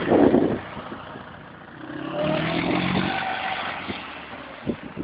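A vehicle engine running, swelling in level and pitch about two seconds in, then easing off, after a short loud noise at the start.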